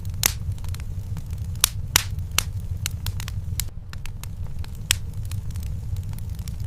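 Wood fire in a fireplace crackling: sharp, irregular pops and snaps over a steady low rumble.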